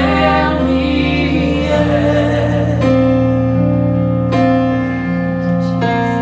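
Worship song: a sung phrase over keyboard and band in its first half, then sustained keyboard chords changing about every second and a half.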